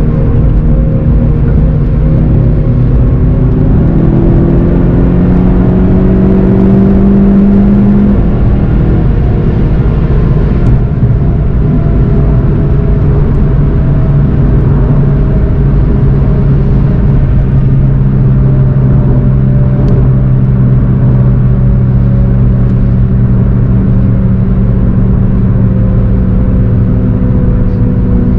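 VW Golf 7 GTI TCR's turbocharged 2.0-litre four-cylinder engine heard from inside the car under load: it climbs steadily in pitch as it accelerates through a gear, drops sharply at an upshift about eight seconds in, then runs on steadily, slowly falling in pitch as the car eases off near the end.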